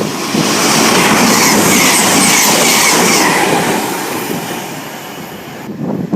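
A train passing through at speed: its noise builds quickly, holds loud for about three seconds with a faint high wheel squeal, then fades away.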